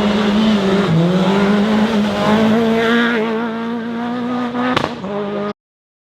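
Rally car engine running hard on a forest stage, its note held nearly steady and rising slightly, with some tyre squeal. A sharp click comes just before the sound cuts off suddenly near the end.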